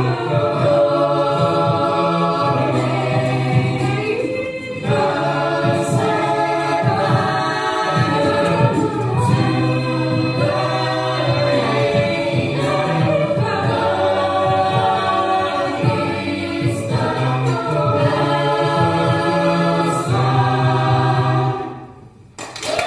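Choir singing with sustained chords over a steady low note. The music falls away sharply about a second before the end.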